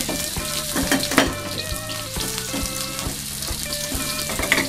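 Chopped shallots and garlic sizzling in hot oil in an aluminium wok, stirred with a spatula that scrapes and knocks against the pan, sharpest about a second in. Soft background music plays underneath.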